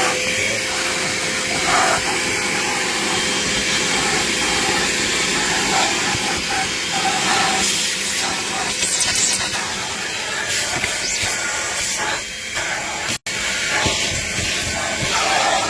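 Vacmaster VOM205P 2.5-gallon wet/dry shop vac running with a narrow crevice nozzle: a steady motor whine under a loud hiss of air rushing through the nozzle, wavering as the nozzle is worked around. The sound cuts out for an instant about thirteen seconds in.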